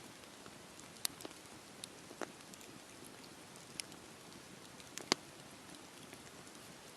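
Campfire burning with a low steady hiss and sharp, irregular wood crackles and pops, the loudest one a little after five seconds in.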